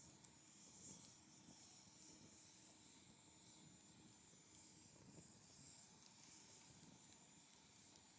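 Wood fire burning low and faint, a soft steady hiss with a few small crackles.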